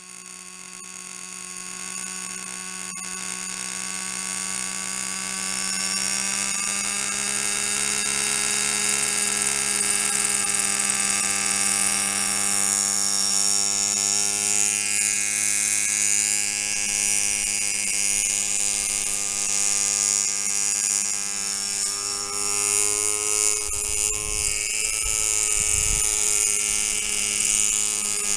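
O.S. 32FH two-stroke glow engine of a Kalt radio-controlled model helicopter running steadily, a high buzzing note that grows louder over the first six seconds or so. A few low thumps come near the end.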